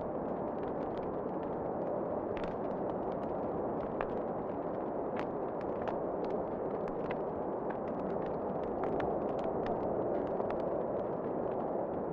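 Wood fire crackling in a fireplace: irregular sharp pops and snaps, several a second at times, over a steady low rushing noise of wind.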